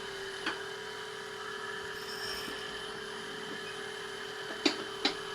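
Surface grinder running, its abrasive wheel spinning with a steady hum over a hiss as it starts to touch the cast iron table. A sharp tick comes about half a second in and two more close together near the end.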